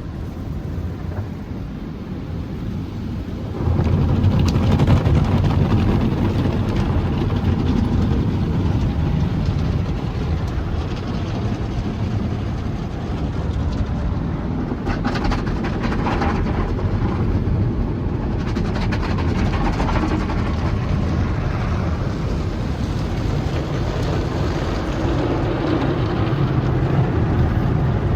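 Sonny's tunnel car wash equipment working over a car, heard from inside the car: a steady rush of water spray and rumbling wash machinery. It gets louder about three and a half seconds in, with a run of sharper hits and sprays around the middle.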